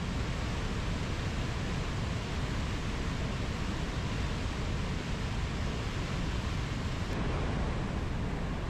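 Rainforest nature-sound ambience: a steady, even rushing noise with no distinct bird or insect calls.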